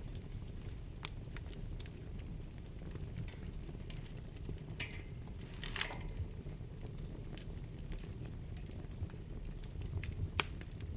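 Wood fire burning in a fireplace: a steady low rumble of flames with scattered sharp crackles and pops, and two short hissing flares about five and six seconds in.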